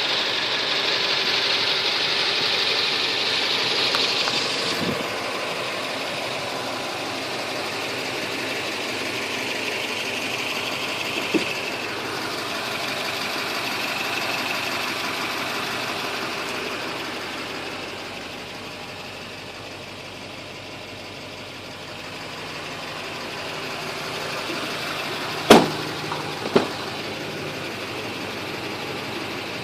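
Chevrolet Silverado 2500HD's 6.6 L Duramax V8 turbo-diesel idling steadily, with all eight injectors new. Two sharp knocks sound about a second apart near the end.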